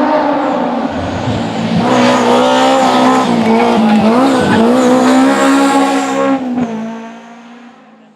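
A historic rally car at full throttle on a special stage, its engine pitch rising and dipping through gear changes about four seconds in. The engine then fades away as the car drives off.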